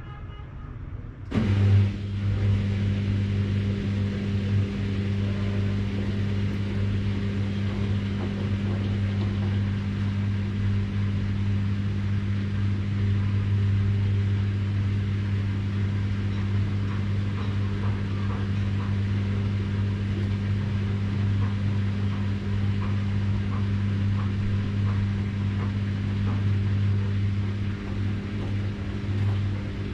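Washing machine running: after a quieter moment its motor and drum start with a sudden jump about a second and a half in, then settle into a loud, steady, deep hum with faint ticking over it.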